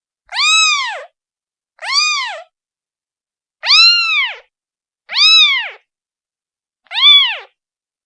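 Newborn kitten, a day old, meowing to call its mother: five high meows about one and a half seconds apart, each rising then falling in pitch, with silence between.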